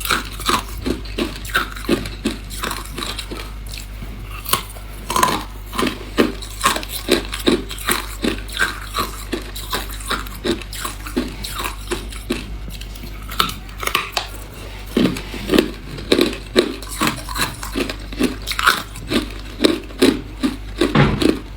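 A person biting and chewing hard clear ice, with sharp crunches two or three times a second over a steady low hum.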